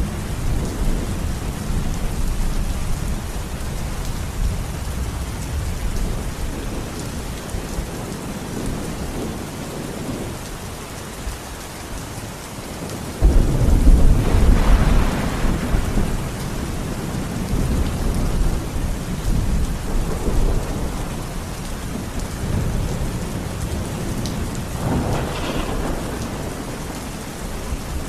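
Steady rain falling, with rolling thunder rumbling under it. About halfway through a loud thunderclap breaks in suddenly and rumbles on for several seconds; a smaller rumble follows near the end.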